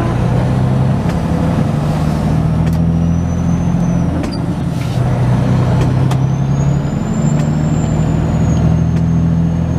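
Heavy truck's diesel engine heard from inside the cab, pulling under load: its pitch climbs, drops back with a brief dip a little over four seconds in as a gear is changed, then climbs again.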